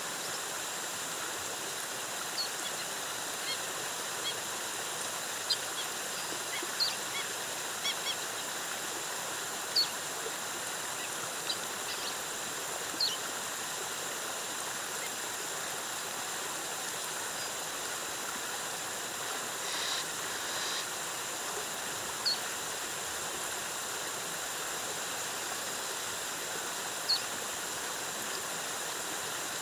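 Steady rush of a jungle waterfall, with short high bird chirps scattered over it, most often in the first half.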